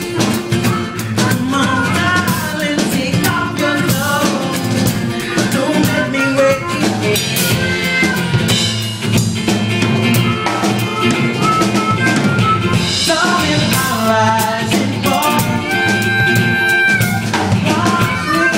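A live band playing loud, steady music, driven by a drum kit.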